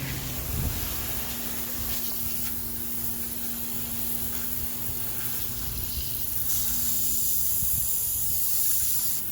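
Water spraying from a hose powered by a pump, with the pump's motor humming steadily underneath; the spray grows louder about six and a half seconds in and stops at the end.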